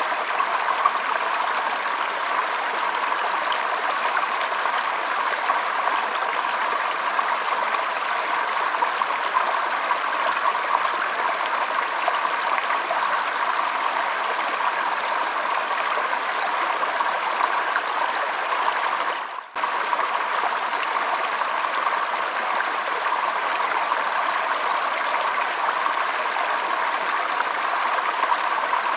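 Shallow stream trickling and flowing steadily, with a momentary dip in the sound about two-thirds of the way through.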